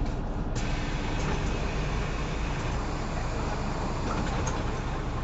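Cabin sound of a Mercedes-Benz O530 Citaro facelift bus under way: steady diesel engine and drivetrain hum with road and tyre noise. A hiss joins in about half a second in, with a few faint rattles.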